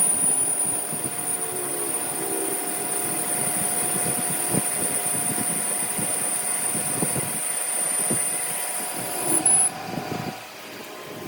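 A machine running steadily with a constant whine and irregular light knocks, winding down and stopping near the end.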